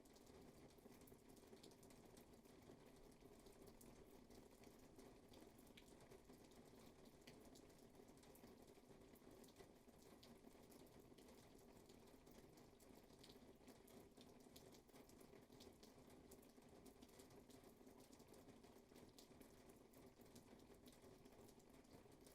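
Faint, steady rainfall: an even hiss of rain with scattered sharp ticks of individual drops.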